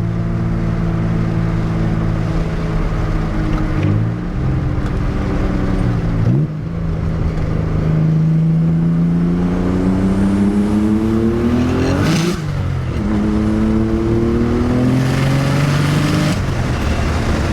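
Nissan 300ZX twin-turbo V6 accelerating hard, heard from the driver's seat: the engine note climbs in a long pull, breaks off with a sharp burst of noise and a drop in pitch at a gear change about two-thirds of the way in, then climbs again until the throttle is lifted near the end.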